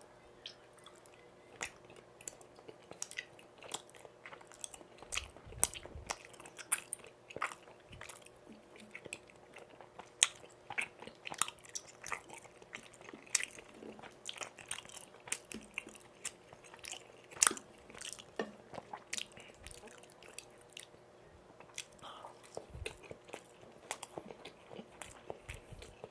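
Close-miked chewing of tteokbokki rice cakes and pan-fried jeon: irregular wet smacks, bites and small crunches, several a second, with a faint steady hum underneath.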